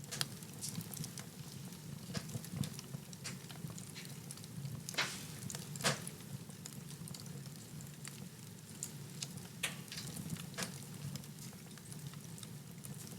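Wood fire in a fireplace crackling, with scattered sharp pops over a steady low rumble from the flames; two louder pops come about five and six seconds in.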